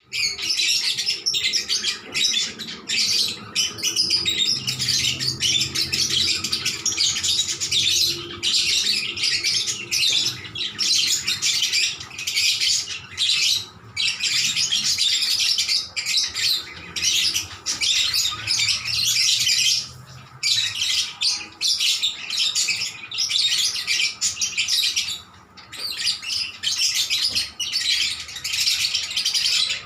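Lovebirds chattering and chirping rapidly and almost without pause, shrill high-pitched calls answering one another, with a few brief breaks.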